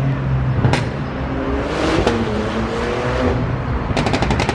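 A vehicle engine running with slow shifts in pitch. Near the end a rapid string of exhaust pops starts, about ten a second: a backfire crackle.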